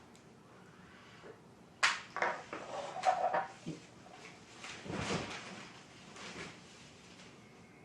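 A few sharp knocks and clatters of things being handled, the sharpest about two seconds in, with a brief squeak around three seconds in and more clatter about five seconds in.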